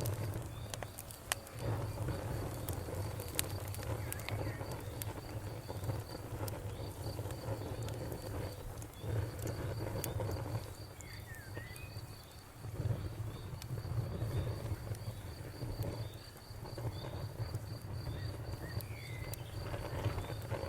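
Campfire crackling, with frequent sharp pops over a low steady rumble. Behind it there is a high chirping in a fast, even pulse, and a bird gives a short chirp a couple of times.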